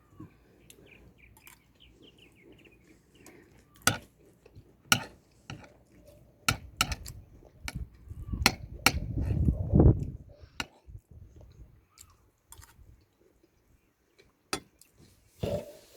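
Cutlery clinking against a dish: a dozen or so sharp, separate clicks spread through the stretch. About halfway through there is a louder, low, muffled sound lasting about two seconds.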